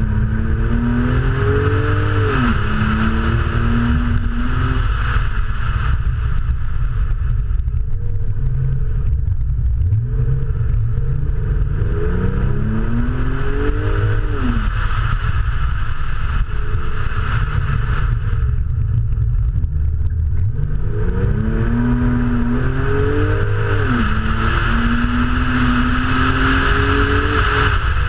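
Porsche 911 (993) air-cooled flat-six accelerating hard and easing off three times, its pitch climbing and then dropping each time, with steadier running in between. Heavy road and wind rumble runs underneath.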